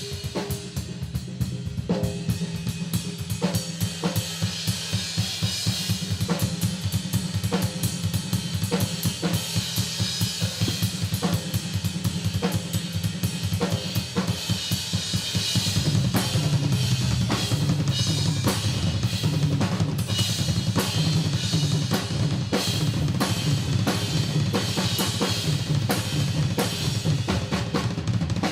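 Live drum kit played at a fast, steady beat, with kick drum, snare and cymbals. The low end grows louder a little past halfway.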